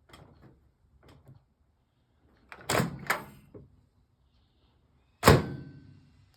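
Microwave oven door: two sharp latch clacks about two and a half seconds in, then a loud bang as the door is shut a little after five seconds, with a brief metallic ring after it.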